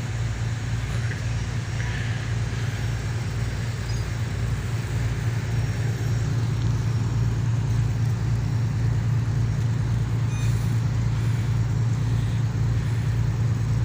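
Tugboat's diesel engine running steadily: a low, even drone with a slow regular pulse underneath.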